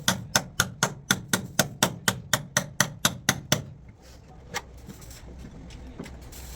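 Hammer striking sheet metal in car body denting work: an even run of about four strikes a second for some three and a half seconds, then one more strike about a second later.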